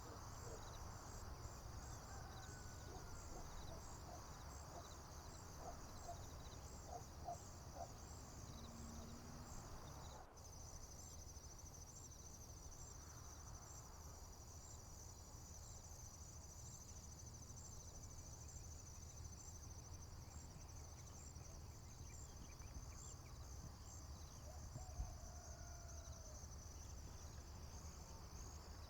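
Crickets and other insects trilling steadily at a high pitch, faint, with a few soft bird calls and a low steady rumble underneath. The trill's rhythm changes abruptly about ten seconds in.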